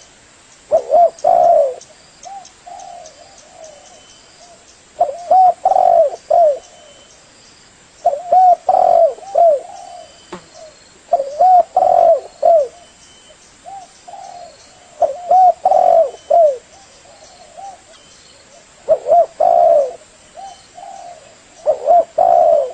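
Spotted dove cooing: a short phrase of several coos, repeated about every three to four seconds, seven times.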